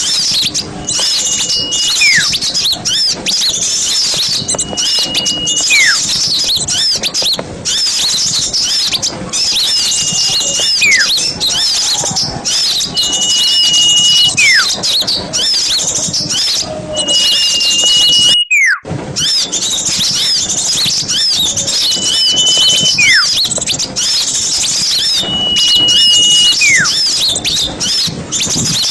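A dense, noisy chorus of small birds chattering in high chirps, with a repeated whistled call: a held high note and then a whistle sliding down in pitch, about every three to four seconds. The sound cuts out for a moment about two-thirds of the way through.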